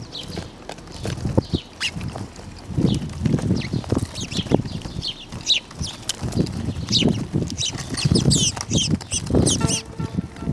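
A flock of birds chirping in many short, quick calls that fall in pitch, over repeated low flutters of wings.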